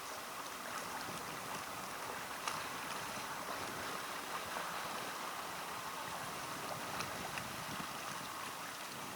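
Water lapping and trickling against a small boat's hull as it moves slowly, with a few faint knocks.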